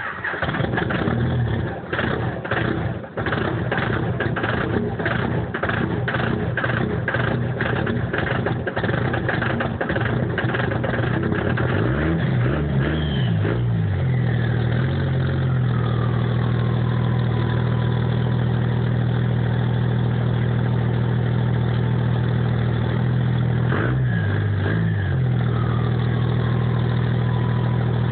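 Dodge Cummins inline-six turbodiesel cold starting: it fires and runs with an uneven rhythmic pulse for about ten seconds, then is briefly revved twice and settles to a steady idle. After each rev the turbo's whistle falls away as it spools down.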